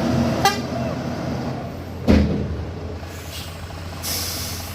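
Heavy truck engine running low and steady, with a sharp metallic clank about half a second in, a heavy thump about two seconds in (the loudest sound), and a brief high hiss near the end.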